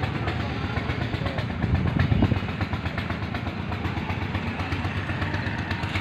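Belarus tractor's diesel engine running steadily, a little louder for a moment about two seconds in.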